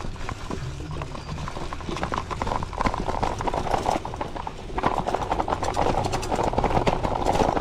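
Gravel bike rolling over a rough dirt and gravel trail: tyres crunching on loose stones and the bike rattling over bumps in a dense, irregular clatter that grows busier about a second and a half in and again near five seconds.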